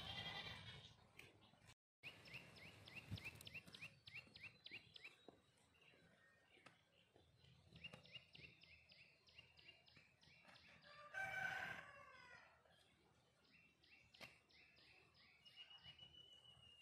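Faint bird calls: fast trills of short repeated chirps come several times, and a louder, longer call with falling pitch lasts about a second, starting about eleven seconds in.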